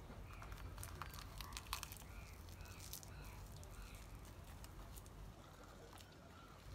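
Dried roasted seaweed (nori) wrapped around rice crackling and crunching as it is bitten and chewed, with crisp crackles in the first two seconds, then quieter chewing.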